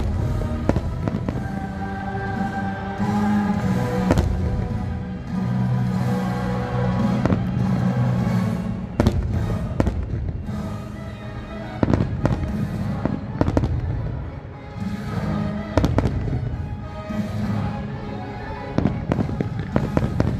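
Aerial fireworks bursting in a string of sharp cracks and booms, the loudest about nine, twelve and sixteen seconds in, over the show's accompanying music.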